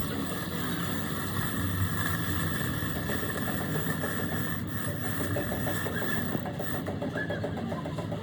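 A motor or machine running steadily, an even rough mechanical sound without distinct strikes.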